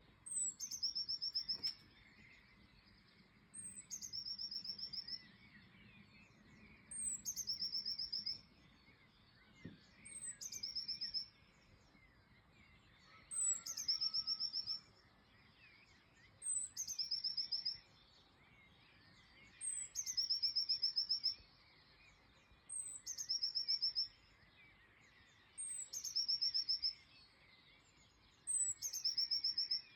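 A songbird singing the same short phrase over and over, about every three seconds: a high note sliding down into a fast, even trill lasting about a second. Fainter chirps from other birds sound in the background.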